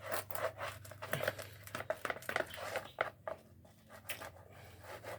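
Repeated scrubbing strokes over a plastic motorcycle side panel coated in paint stripper, working the softened paint loose; the strokes come a few a second, lighter and sparser around the middle.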